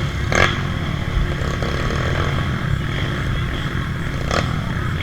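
Off-road trail motorcycle engine running steadily, with two short sharp sounds, one about half a second in and one near the end.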